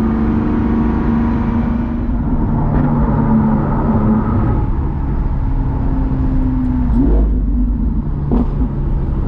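Lamborghini Aventador SVJ's naturally aspirated V12 running under way through its Balboni exhaust, a steady engine note that shifts pitch about two and a half seconds in.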